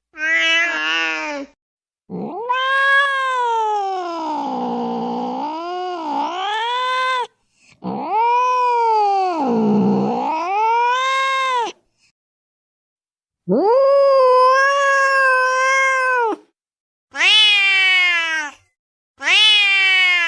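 A cat crying in a series of about six loud, drawn-out wailing meows. The two longest last around four to five seconds each, their pitch sagging in the middle and rising again, with short gaps between calls.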